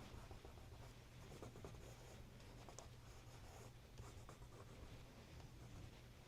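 Faint, irregular scratching strokes of a drawing tool on sketchbook paper, over a steady low hum.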